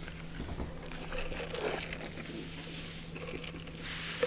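Soft eating sounds from a Big Mac burger: quiet chewing, squishing and paper wrapper rustling, with a steady low hum underneath.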